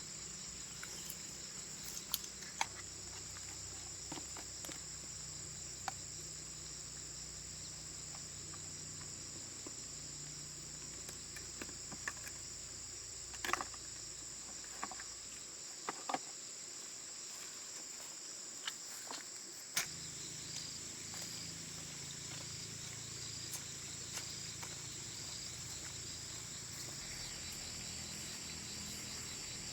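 Insects chirring steadily in a high, even drone, with scattered light clicks and taps. A low hum drops out for a few seconds around the middle.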